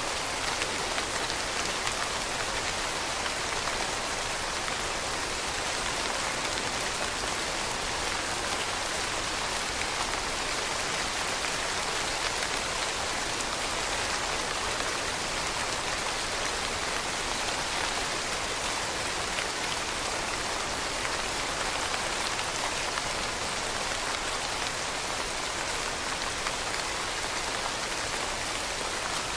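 Steady rain falling on leaves, a dense, even patter with no breaks.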